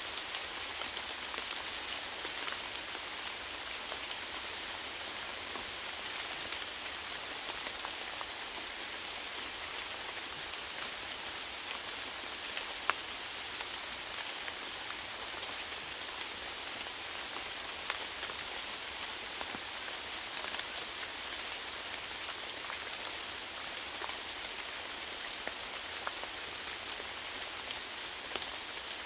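Steady rain falling, an even hiss with many small drop ticks on a hard surface and a couple of sharper single drops.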